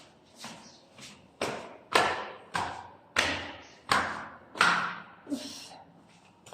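A series of about nine knocks and thuds on hard surfaces, coming fairly evenly, roughly two-thirds of a second apart, each dying away quickly.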